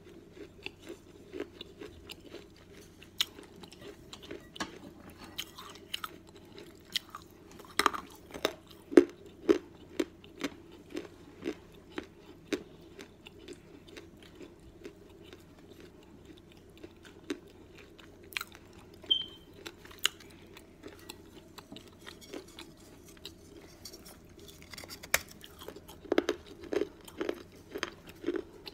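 Close-up chewing of pieces of a fired, unglazed clay cantarito cup: irregular sharp crunches and clicks of the brittle clay between the teeth. They come thickest about eight to ten seconds in and again near the end.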